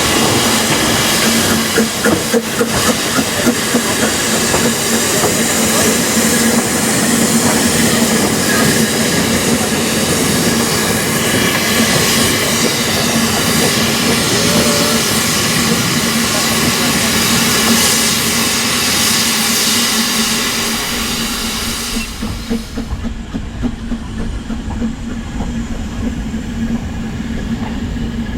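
Ffestiniog Railway double Fairlie steam locomotive Merddin Emrys hissing steam loudly and steadily. A little over twenty seconds in the hiss drops away, leaving a lower rumble.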